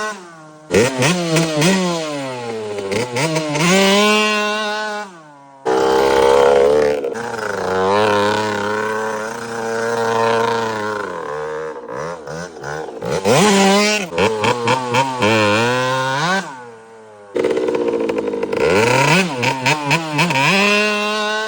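KTM 65 single-cylinder two-stroke dirt bike engine revving hard, its pitch climbing and falling again and again as the throttle is opened and shut, with bursts of quick throttle blips. The sound breaks off abruptly a couple of times.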